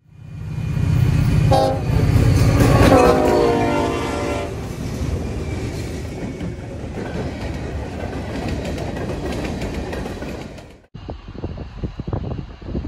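Diesel locomotive passing close by: its engine runs low and its air horn sounds a chord for about three seconds, followed by the steady rumble of the train rolling past. About eleven seconds in the sound cuts abruptly to a quieter, gusty rumble.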